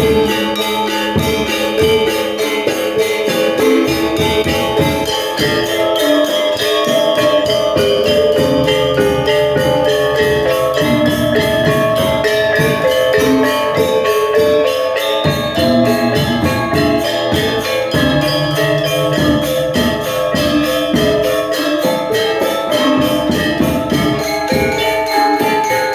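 Balinese gamelan gong ensemble playing: bronze metallophones and gongs ring steady tones over quick, continuous clashing of small cymbals and drumming.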